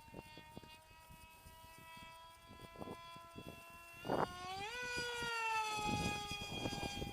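Skyartec Skyfun RC plane's electric motor and propeller whining in flight; about four seconds in the whine jumps sharply up in pitch and loudness as it is throttled up, then slowly falls away. Wind buffets the microphone with low gusty thumps throughout.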